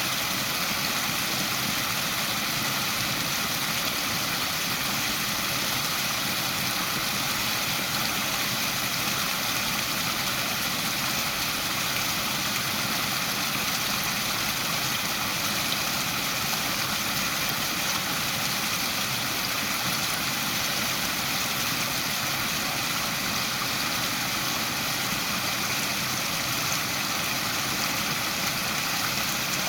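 Waterfall: a steady, unbroken rush of falling water, with most of its hiss in the upper range.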